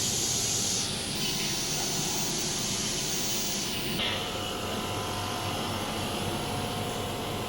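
A steady hiss that breaks off briefly about a second in and stops about four seconds in, over a low steady machine hum.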